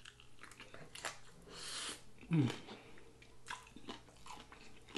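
Close-up mouth sounds of a person eating saucy chicken wings: wet chewing and lip-smacking clicks, with a breathy hiss about a second and a half in and a short hum from the voice, falling in pitch, just after.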